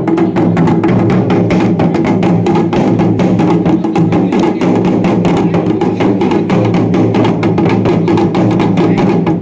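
Dhol and damau drums beaten in a fast, dense, steady rhythm over a steady low drone.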